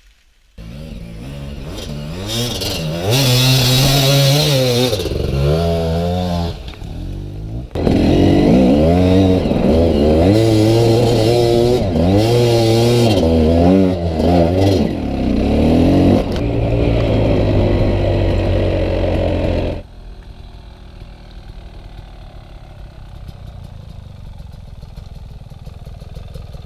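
Two-stroke GasGas EC 300 enduro bike engine revving hard, pitch rising and falling again and again as the throttle is worked up a steep leaf-covered slope. About 20 seconds in it gives way suddenly to a quieter, steadier engine sound from further off.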